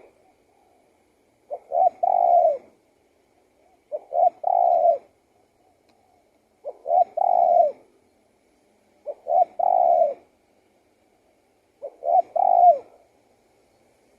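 Spotted dove cooing: five repeats of its phrase about every two and a half seconds, each two short notes followed by a longer note that falls away at the end.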